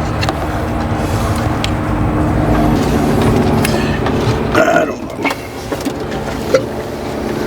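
An engine idling steadily, with a few light clicks and a brief voice-like sound near the middle.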